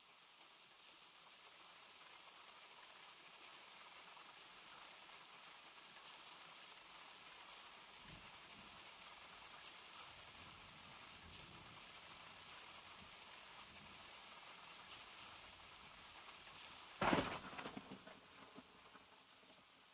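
Steady rain falling. A faint low rumble comes partway through, and near the end there is one sudden loud crack that fades away over a second or so.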